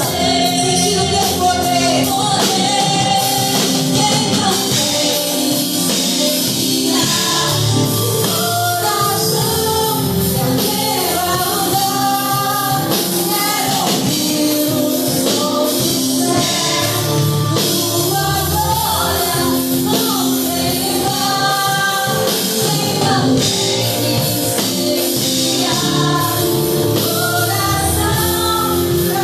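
Live gospel worship music: singing over a full band with drums and cymbals.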